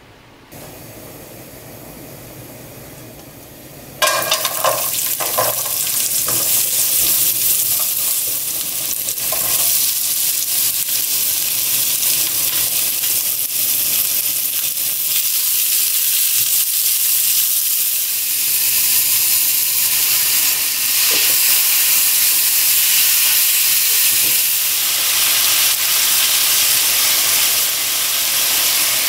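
Vegetables and thin-sliced beef stir-frying in oil in a nonstick frying pan, sizzling loudly and steadily. The sizzle starts suddenly about four seconds in, with a few knocks soon after.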